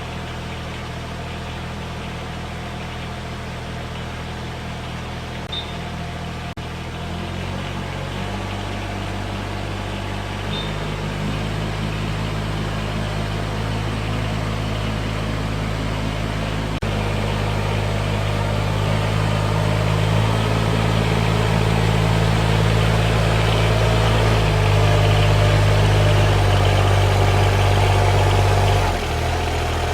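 Yanmar VP80DX rice transplanter's engine running after a cold start, its speed stepping up twice in the first half and growing louder, then dropping back near the end.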